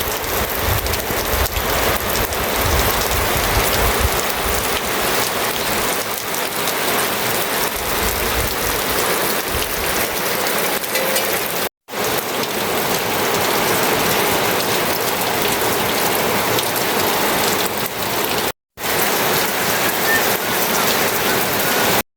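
Heavy rain falling steadily, a dense crackling patter of drops on surfaces. It breaks off for an instant twice.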